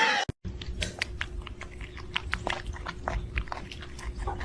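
A pet chewing and crunching: quick, irregular crisp clicks that start abruptly about half a second in, over a faint steady hum.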